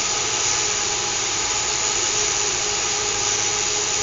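Small electric motors of a fischertechnik model monorail running at full speed, a steady whirring whine that holds an even pitch and level.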